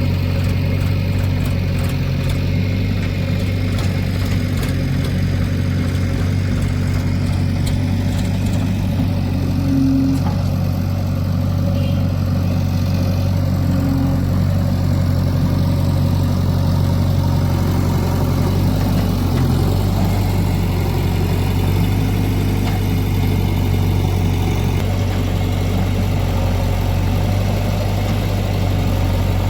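Diesel engine of a backhoe loader and tractor at work, running steadily with a deep, even hum.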